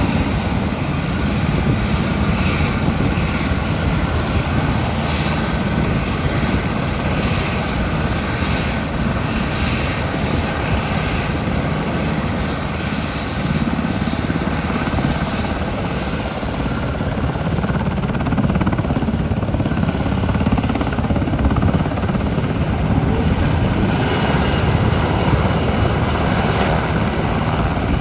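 Mitsubishi SH-60K Seahawk helicopter's rotors and twin turboshaft engines running: a steady, dense rotor chop, getting a little louder about two-thirds of the way through.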